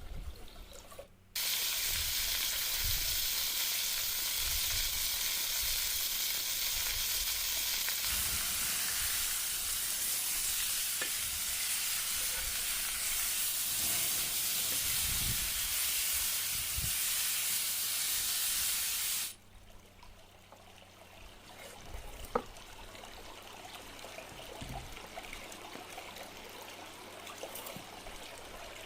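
Food sizzling and frying in a hot pan, a loud steady sizzle that starts abruptly about a second in and cuts off suddenly after about eighteen seconds. Quieter outdoor sounds follow, with a single sharp click.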